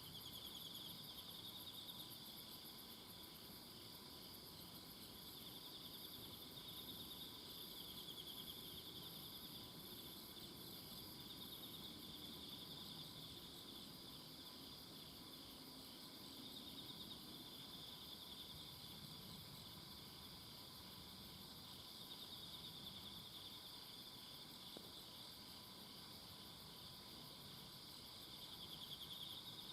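Several insects calling together, faint: a steady high chirring with pulsing trills that swell and fade every few seconds, and a still higher pulsing buzz that drops out about halfway through.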